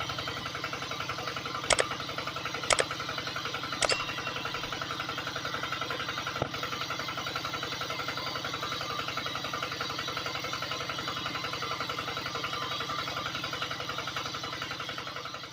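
A small motor running steadily with a rapid, even pulsing, and three sharp clicks in the first few seconds.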